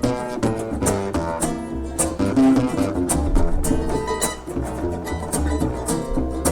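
Acoustic string band playing live: picked acoustic guitar and other plucked strings over a low bass line.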